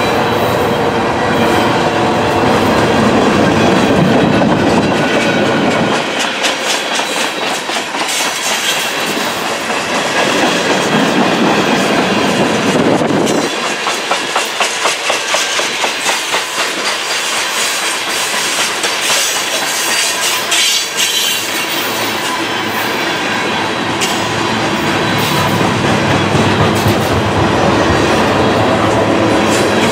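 Freight train cars, mostly tank cars, rolling past at restricted speed: a steady rumble of steel wheels on rail, with stretches of rhythmic clickety-clack as the wheel sets cross the rail joints.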